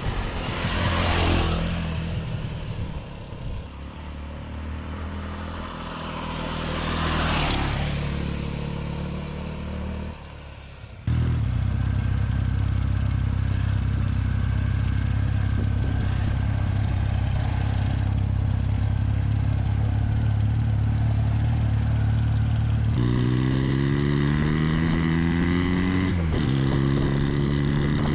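Honda NX250 motorcycle engine running. It swells in loudness twice in the first eight seconds, breaks off briefly, then runs steadily. Near the end it revs up twice, its pitch climbing and dropping back sharply between the two revs.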